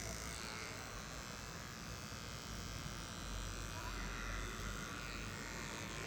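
Cordless electric hair clipper running with a steady buzz.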